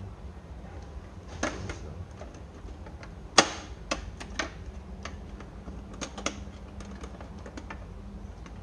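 Dehumidifier parts clicking and knocking as they are handled and fitted, a scattered series of sharp clicks with one loud knock about three and a half seconds in.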